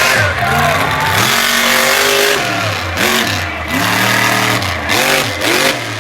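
Monster truck engine revving hard, its pitch rising and falling several times as the throttle is worked on and off.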